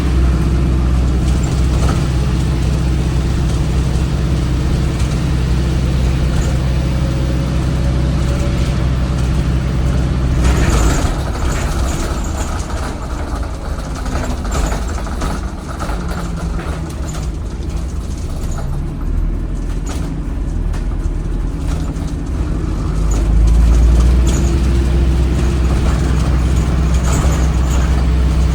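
Alexander Dennis Enviro 400 hybrid bus's Cummins ISBe 4.5-litre four-cylinder diesel running hard at full throttle, with a loud exhaust. About ten seconds in there is a brief hiss and the engine note drops, then it rises and runs hard again near the end.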